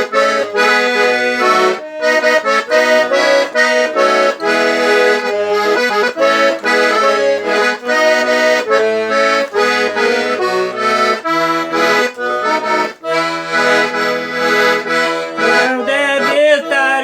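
Accordion (sanfona) playing an instrumental interlude: a quick melody of sustained chords over short bass notes repeating in a steady rhythm, with a wavering run near the end.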